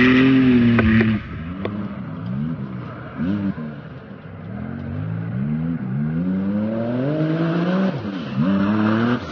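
Off-road race car engine accelerating hard. A loud engine note drops away about a second in. The engine is then heard climbing through the gears in repeated rising pitch sweeps with short breaks between them, growing louder.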